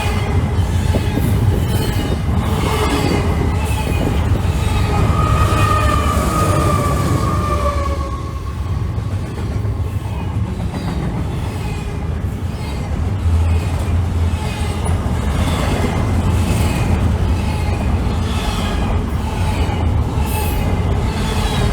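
Freight train cars rolling past at close range, with a steady rumble of steel wheels on rail and repeated high wheel squeals, one of them drawn out for a few seconds near the start.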